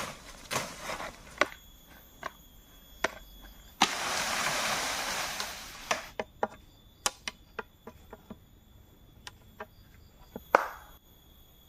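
Sharp single strikes of chopping on bamboo, irregularly spaced, across short cut-together shots. About four seconds in, a burst of hiss lasting about two seconds.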